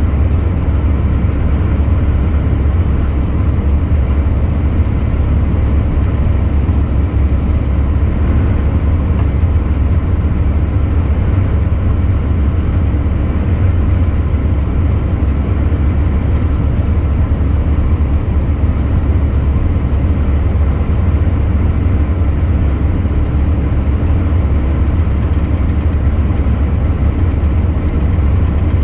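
Truck driving along at a steady speed: a steady, deep rumble of engine and road noise.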